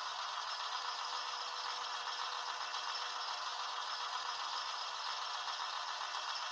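Viessmann H0-scale model of the ÖBB Robel 54.22 track motor car in operation: a steady, even mechanical noise with a faint steady tone underneath, with no breaks or single knocks.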